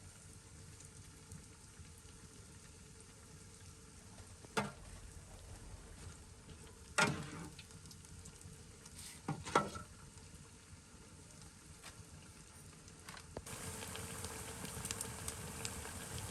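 Food sizzling in a frying pan, a steady hiss broken by three sharp knocks, with the sizzle growing louder about two-thirds of the way through.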